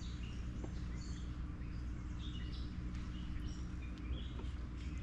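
Birds chirping, many short high calls, over a steady low hum.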